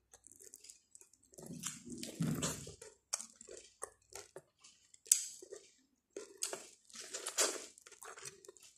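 Biting kernels off a boiled corn cob and chewing them close to the microphone: irregular crunches, bites and wet mouth sounds, with one sharp bite about five seconds in.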